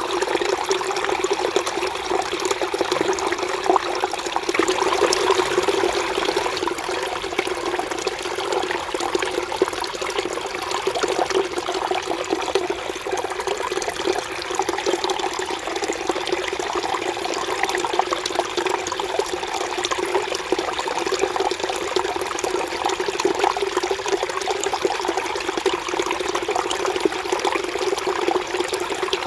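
Mountain stream flowing over rocks: a steady babbling and splashing of water.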